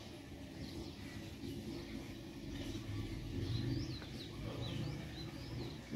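Birds chirping faintly, several short calls through the middle, over a steady low rumble.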